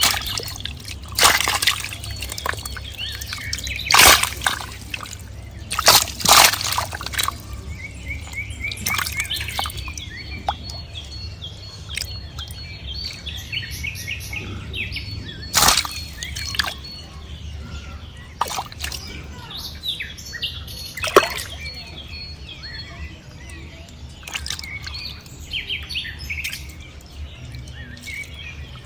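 Small birds chirping in repeated short notes, with several loud sudden splashes and sloshes of water over a steady low hum.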